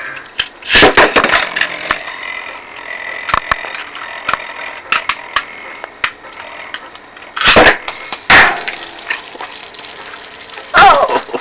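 Beyblade Metal Fusion spinning tops, Lightning L-Drago against Legend Knight Virgo, are ripcord-launched about a second in. They then spin in a plastic stadium with a steady high whine and scattered sharp clicks as they clash. Louder clashes come near the end, as one top is knocked toward the stadium edge.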